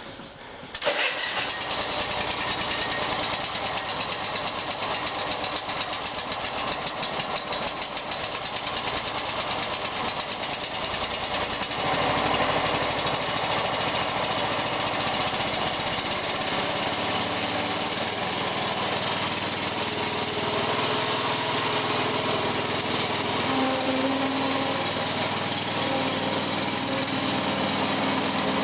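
Honda small engine catching about a second in on a cold start, then running steadily at idle with its throttle set low.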